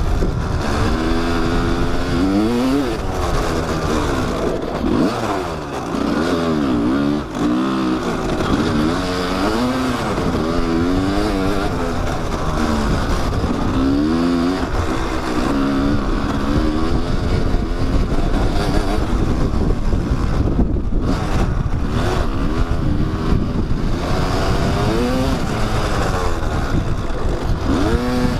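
Kawasaki dirt bike engine revving on the trail, its pitch rising and falling again and again as the throttle is worked, over a steady rush of wind noise.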